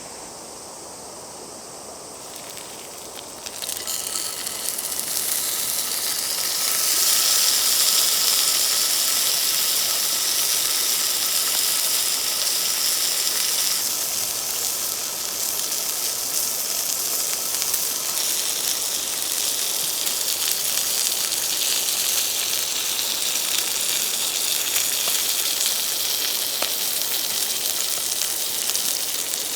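Food sizzling in a hot pan over a campfire: a quieter hiss at first, then a loud frying sizzle starts about three and a half seconds in, swells over the next few seconds and carries on steadily.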